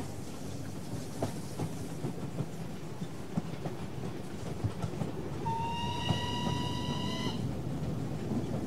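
A train running along the track with scattered clicks of the wheels, and a train whistle blowing once for about two seconds in the second half.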